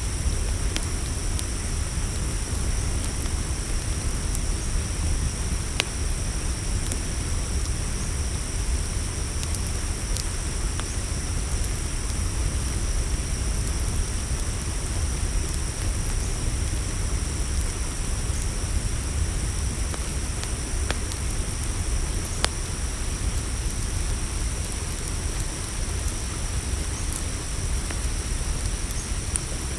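Campfire burning with a steady low rumble and a few sharp crackles and pops, over the steady high chirring of crickets.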